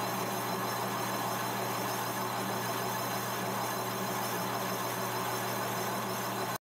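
Metal-turning lathe running with a steady hum and even hiss, which cuts off suddenly near the end.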